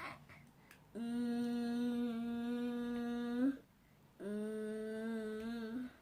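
A voice humming two long, steady notes, the first about two and a half seconds and the second a little shorter, each turning up slightly at the end.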